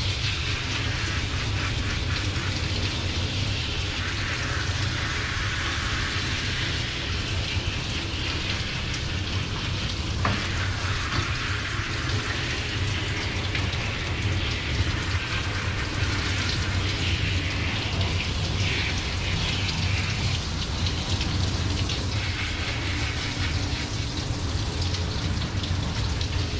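Water spraying steadily from a dog-wash hose sprayer, an even hiss and patter with a low hum underneath.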